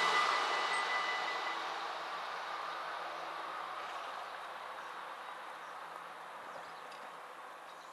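NS Sprinter electric train running away from the crossing, its rail noise fading steadily into the distance. A thin high tone stops about one and a half seconds in.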